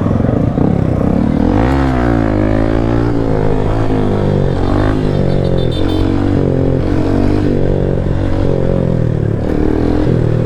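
Motorcycle engine running under way, its pitch dipping about two seconds in and then rising and falling over and over, roughly once a second, with the throttle.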